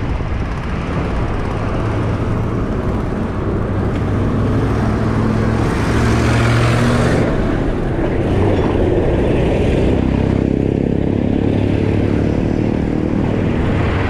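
Motor traffic passing a moving bicycle: engines of vehicles going by, one about four seconds in and another about nine seconds in, over a steady low rush of wind and road noise.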